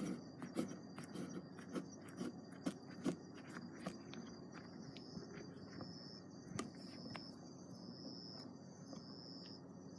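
Wood campfire crackling with sharp pops, frequent at first and sparser later, under the steady high chirping of insects that pulses about once a second near the end.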